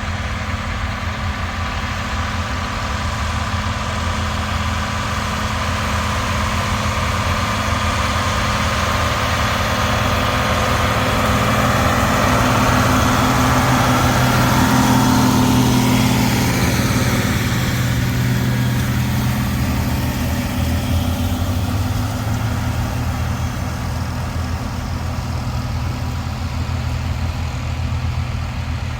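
Tractor engine running steadily, growing louder to a peak about halfway through as it comes close, then fading with its pitch dropping slightly as it moves away.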